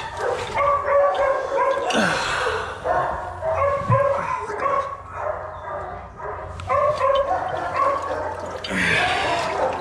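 Many kennelled dogs barking and yelping together, a continuous overlapping din.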